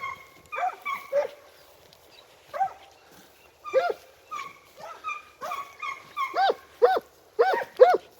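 A pack of segugio scent hounds baying on a scent trail, short yelping cries from several dogs. A few scattered cries and a brief lull at first, then the cries come faster and louder near the end as the hounds work the line toward the game.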